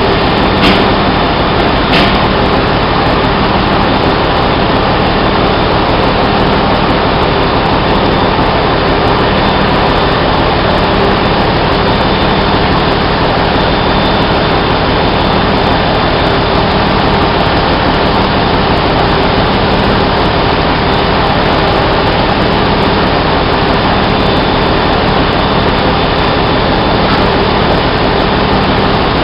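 Loud, steady machinery noise of a ship's engine room, with constant low hums under an even roar and a click about two seconds in.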